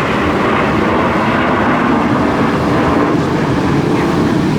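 Airshow aircraft flying over, a loud steady roar.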